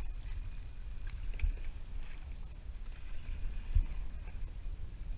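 Water lapping and knocking against a fishing kayak's hull, over an uneven low rumble, with two louder knocks about one and a half and nearly four seconds in.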